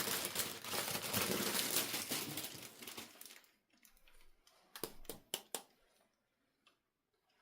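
Plastic packaging crinkling and rustling as it is handled, fading out about three and a half seconds in, then a few sharp clicks.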